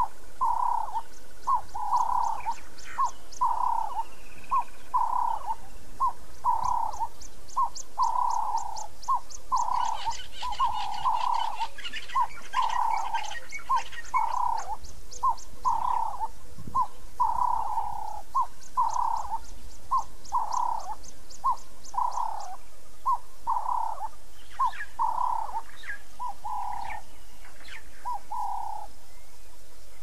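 A bird calling a long, even series of mid-pitched notes, short and long notes alternating, a little over one a second, stopping shortly before the end. Faint runs of fast, high ticking sound above the calls.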